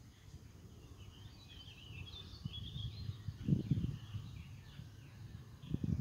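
Small birds chirping, a quick jumble of short high notes from about one to three and a half seconds in, over a low uneven rumble on the microphone that swells near the middle and again at the end.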